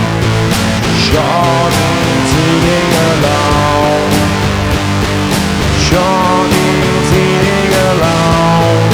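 Instrumental rock passage: electric guitar lines with bent notes over bass and drums keeping a steady beat.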